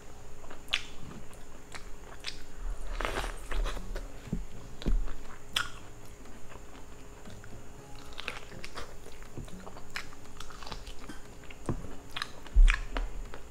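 Biting and chewing on a buttered corn-on-the-cob slice: crunching bites and chewing clicks at irregular intervals. A low thump near the end.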